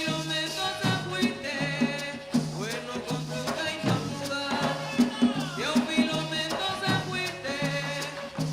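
Colombian gaita music: cane gaita flutes play a sliding melody over a steady rhythm of drums and maraca.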